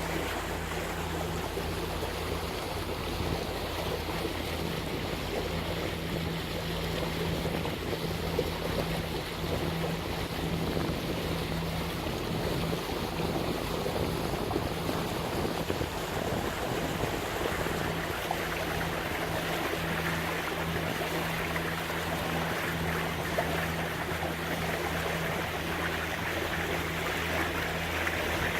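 Lagoon 42 catamaran under diesel power, its engines a steady low drone under the rush of water along the hulls and wind on the microphone.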